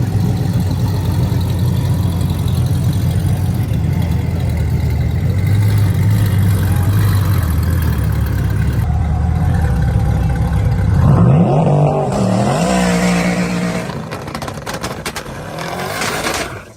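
Twin-turbo C8 Corvette engine running hard under acceleration, a steady low drone. About eleven seconds in its pitch climbs in a couple of rising sweeps, then the sound eases off a few seconds before the end.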